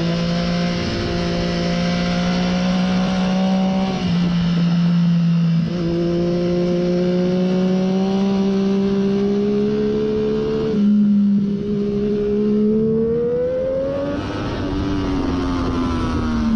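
2014 Triumph Daytona 675's three-cylinder engine, breathing through a Hindle slip-on muffler, running hard on track: its pitch climbs steadily through a few gear changes, then the revs fall away near the end as the bike slows.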